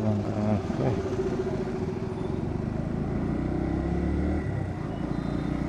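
Bajaj Pulsar NS125's single-cylinder 125 cc engine running steadily while the motorcycle is ridden.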